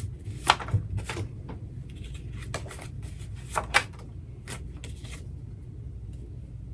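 Oracle cards being handled on a table: a string of sharp snaps and taps as cards are shuffled and laid down, thinning out after about five seconds.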